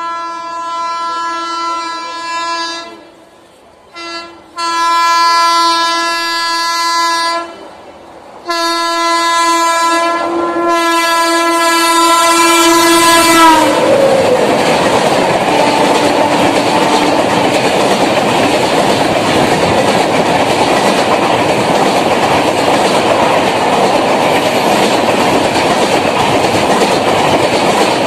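Horn of a WAP7i electric locomotive sounding three long blasts as it comes in at about 102 km/h, the pitch dropping at the end of the third as the engine passes. Then the steady rush and wheel clickety-clack of its LHB coaches going by at speed.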